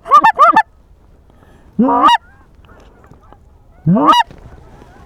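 Goose honking: three quick clucks at the start, then three drawn-out honks about two seconds apart, each rising in pitch and breaking upward.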